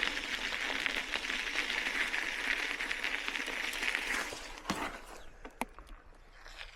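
Bicycle rolling on a rough road surface: steady tyre noise with fine ticking that dies away after about four seconds as the bike comes to a stop, followed by a few light clicks.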